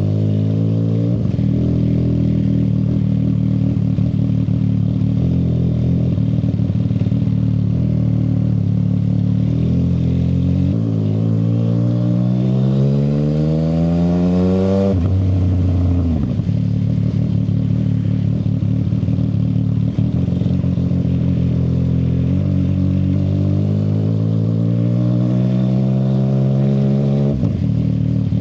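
CFMoto 675 SR-R's three-cylinder engine through an aftermarket shorty exhaust, running steadily, then climbing slowly in revs twice, once about halfway and once near the end, each time dropping back sharply.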